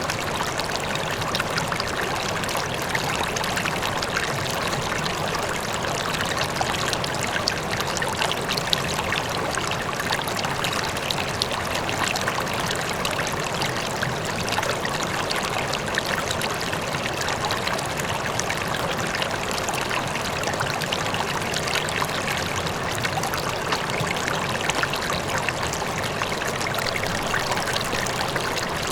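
A river flowing steadily, its water splashing and trickling without a break, with a faint waterfall in the distance.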